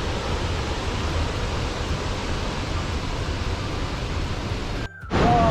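Waterfall rushing with a steady, even noise of falling water. The sound cuts out briefly near the end and comes back louder.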